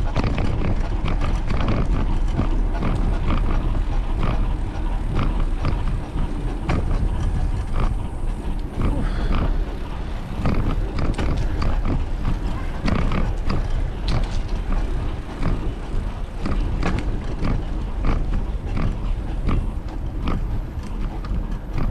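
Bicycle riding along a path: a steady low rumble with frequent irregular clicks and rattles from the bike.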